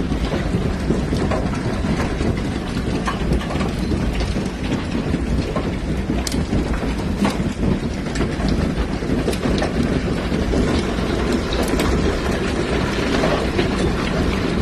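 Heavy hail pelting down: a loud, steady clatter of countless hailstone impacts, with sharper individual hits standing out now and then.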